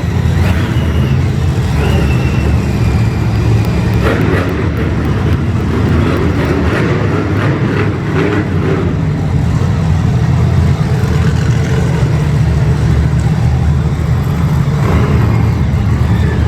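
Monster truck engine running loud and steady, a deep continuous rumble with no clear rise or fall in pitch.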